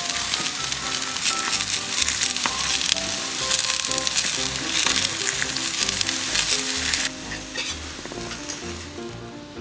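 Chicken breast sizzling as it fries on a hot griddle plate over a portable gas stove, a steady frying hiss. The sizzle drops away sharply about seven seconds in.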